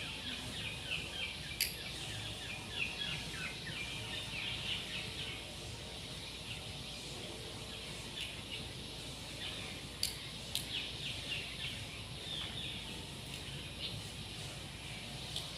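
Small birds chirping in quick runs of short high chirps over steady background noise, with a few sharp clicks: one about a second and a half in and two around ten seconds in.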